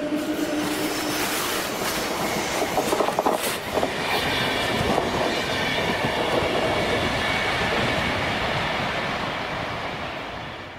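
Train moving along the track, its wheels clacking over rail joints, with a high wheel squeal in the middle. The sound fades near the end.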